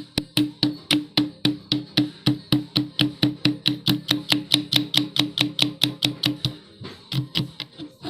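Hammer striking metal in quick, even blows, about four or five a second, each with a short ring. The blows stop about six and a half seconds in, then a few more come near the end.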